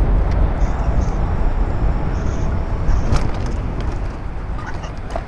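Wind rumbling on the microphone with road noise from a moving e-bike, and a single sharp knock about three seconds in.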